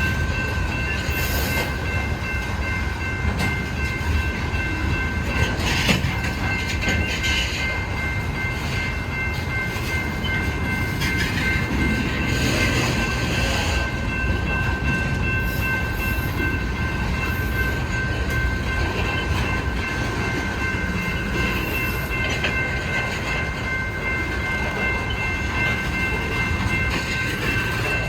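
Union Pacific freight train rolling past on the rails: a continuous low rumble of the cars with scattered clanks and knocks, over a thin steady high-pitched whine.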